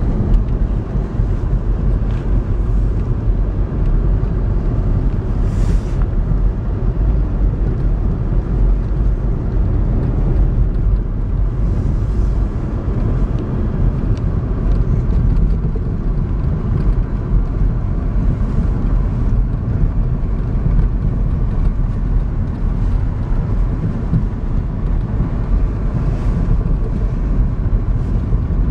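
Steady low rumble of a car heard from inside the cabin while driving on snow-covered roads: engine and tyre noise.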